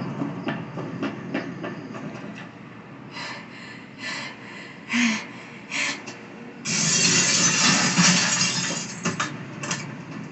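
Action-scene sound effects: a run of knocks and clatters, then about three seconds of loud crashing, grinding noise with glass-like clinks.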